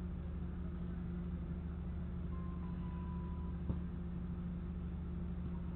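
Steady low mechanical hum, with a single sharp knock a little past halfway and faint short high tones just before it.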